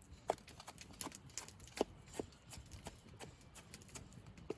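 Knife cutting half-frozen, slushy pickled red ginger: a run of irregular soft crunching cuts, with a few sharper knocks spread through.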